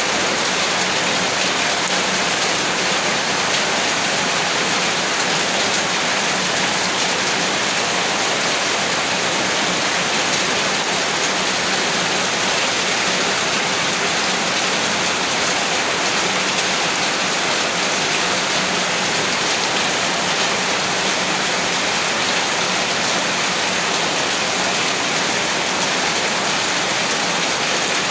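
Heavy rain falling steadily, an even dense hiss of drops with no breaks or distinct events.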